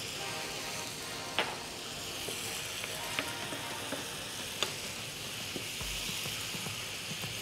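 Diced potatoes, peppers and onions sizzling steadily in olive oil in a frying pan as a wooden spoon stirs them, with a few sharp clicks of the spoon against the pan.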